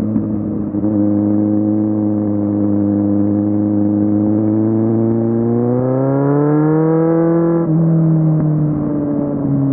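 Kawasaki Z750 inline-four engine running under way, heard from the rider's position. It holds a steady note, then revs climb for about two seconds and drop back suddenly before easing off again.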